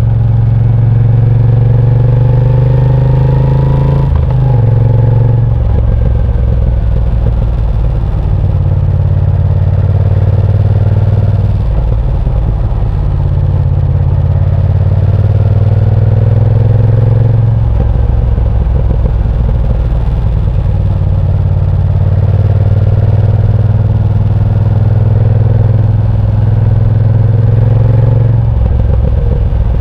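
Moto Guzzi V7 Sport's air-cooled V-twin engine pulling through the gears on the road. The pitch rises with the throttle and drops several times, at about 4, 12, 17 and 28 seconds in, at the gear changes or as the throttle is rolled off.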